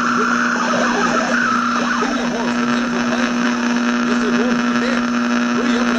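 Steady static hiss with a constant hum running through it, the noise of an old worn soundtrack, with faint wavering sounds buried beneath.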